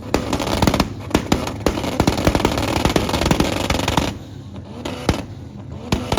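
A rapid, irregular string of loud sharp pops and bangs, densest over the first four seconds, thinning out, then picking up again near the end.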